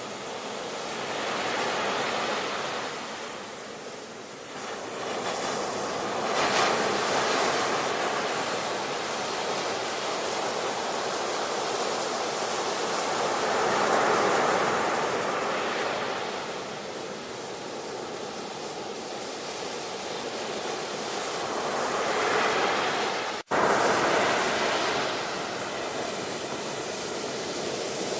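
Ocean surf: waves breaking and washing in, swelling and fading every several seconds. About three-quarters of the way through, the sound drops out for a split second and comes straight back.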